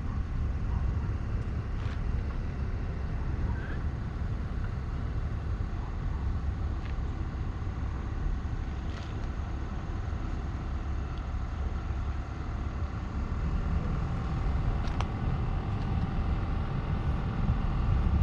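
Steady low rumble of a running vehicle, with faint steady tones above it and a few light clicks.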